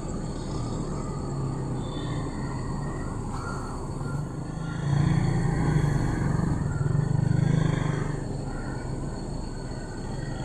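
A steady low engine rumble that swells louder for about three seconds in the middle, then settles back.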